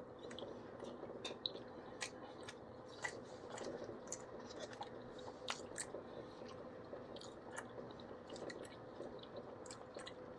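A person chewing a bite of battered, sauced spicy orange chicken close to the microphone: faint, irregular small wet clicks and ticks of the mouth at work, over a faint steady hum.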